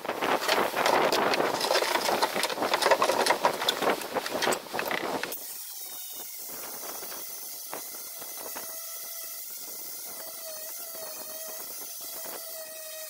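Loud, harsh scraping noise of tool work on the boat's transom. It stops suddenly about five seconds in, leaving only a faint steady whine.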